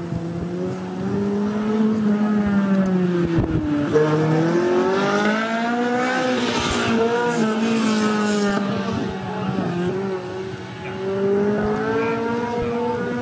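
Toyota MR2 Spyder's 1.8-litre four-cylinder engine being driven hard through a cone course, revving up and falling back several times as the car accelerates and slows between turns. There is a hiss of tyre noise about five to eight seconds in.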